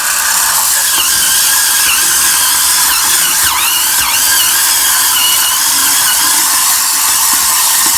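Cordless battery spin scrubber (BulbHead Hurricane Spin Scrubber) running with its dome brush head spinning against a wet kitchen sink: a steady whir with a high squeal that wavers in pitch.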